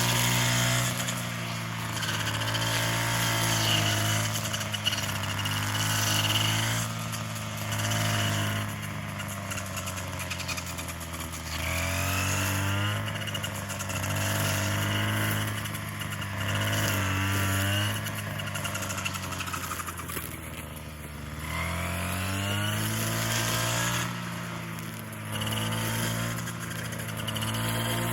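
A small engine running, its pitch rising and falling several times as it speeds up and slows down.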